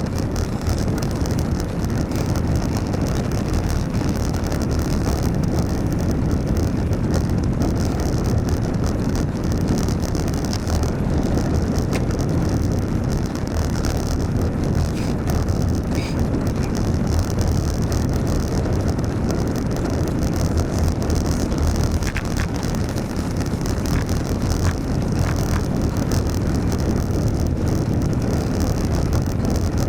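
Steady wind rumble on the microphone over the road noise of a bicycle ride on wet roads in the rain, with a few faint ticks.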